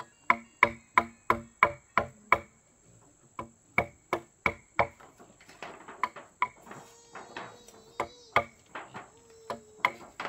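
A series of sharp striking blows, about three a second at first, pausing briefly about two and a half seconds in, then more irregular after about five seconds. A steady high insect drone runs behind, like cicadas or crickets.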